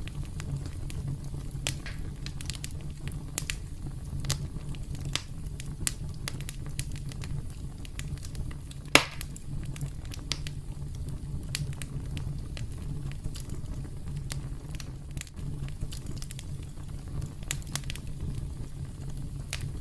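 Campfire crackling: frequent small pops and snaps over a steady low rumble of burning wood, with one much louder pop about nine seconds in.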